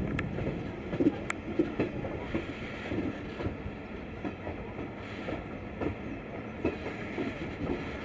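Broad-gauge passenger train running slowly, its wheels clattering over the track with irregular knocks over a steady rumble, and one sharp click about a second in.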